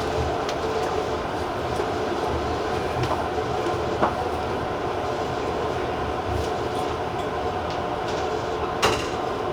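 Tobu TJ Liner electric train rolling into its terminal platform, a steady running rumble with a few sharp wheel clicks over rail joints: one about half a second in, one about four seconds in, and a louder one near the end.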